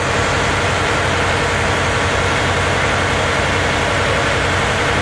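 A large vehicle engine idling steadily, a low, even hum that does not change.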